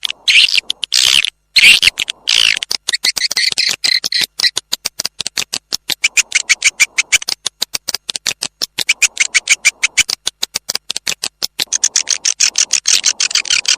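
Swiftlet lure call: recorded swiftlet twittering, a fast, unbroken string of short high chirps at many per second, thicker and busier near the start and again near the end. It is the calling sound played to attract swiftlets into a nesting house.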